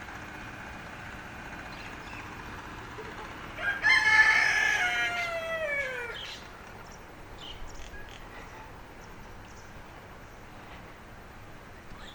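A rooster crowing once, about four seconds in: one long call that holds its pitch, then falls away over about two and a half seconds. Faint small-bird chirps follow.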